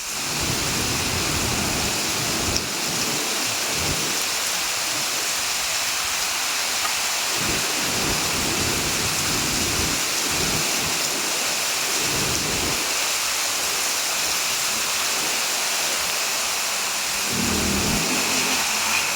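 Heavy rain falling steadily, an even hiss, with low rumbles coming and going underneath.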